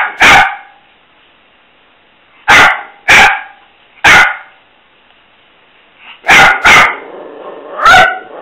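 Italian greyhound barking in play: about eight sharp, loud barks in short groups of two or three, with pauses of a second or two between the groups.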